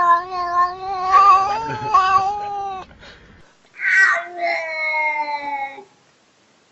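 A domestic cat yowling: two long, drawn-out calls, the first held at a steady pitch for about three seconds, the second shorter and sliding slowly down in pitch.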